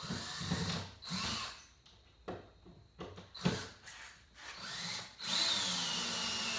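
Power drill run in several short trigger bursts, then held for a longer run near the end whose whine drops slightly in pitch as it loads up, drilling an angled hole into wood.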